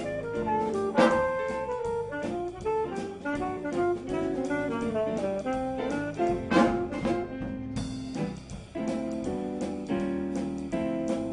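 Student jazz band playing a holiday tune: saxophones and brass over a drum kit, a busy run of moving notes with a few sharp drum accents.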